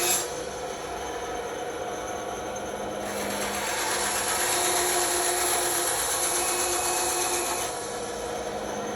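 Bandsaw running and cutting wood: a steady motor hum under the rasp of the blade, which grows louder from about three seconds in and eases a little under a second before the end.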